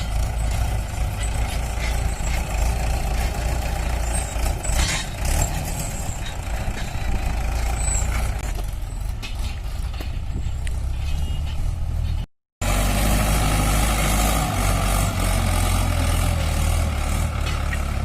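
Heavy diesel engine running steadily under load, with a brief drop to silence about twelve seconds in.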